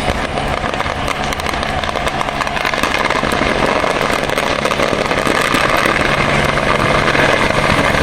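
Engine noise with no clear pitch, growing steadily louder.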